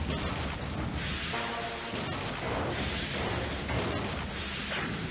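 Cartoon battle sound effects: a run of whooshes and crashing hits, with sudden hits near the start, about two seconds in and near four seconds, over music.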